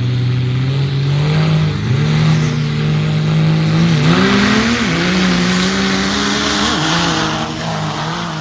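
Diesel drag-racing pickup trucks, a second-generation Cummins and a Duramax, running hard under power, the engine note climbing and then dipping briefly three times as they shift. The sound cuts off abruptly at the end.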